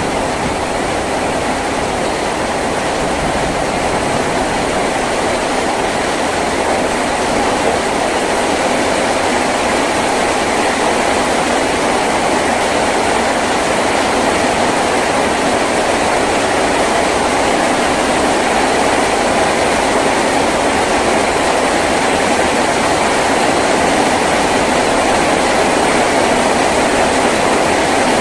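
Heavy rain drumming steadily on a tin roof, a dense even patter with no let-up.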